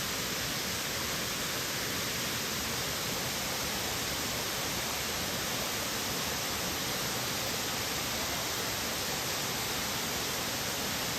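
Waterfall rushing in a steady, loud hiss that starts suddenly after a moment of silence.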